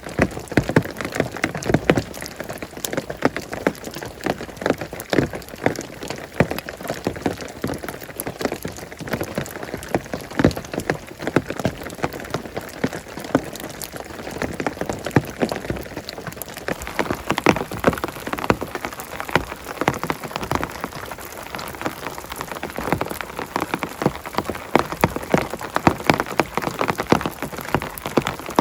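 Heavy rain falling steadily, with a dense, irregular run of sharp drop hits on a nearby surface.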